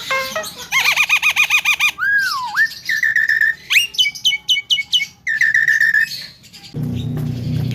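Javan myna calling in a varied run: a fast warbling trill, a swooping whistle that dips and rises, held whistled notes and a quick series of sharp falling notes. A low hum starts near the end.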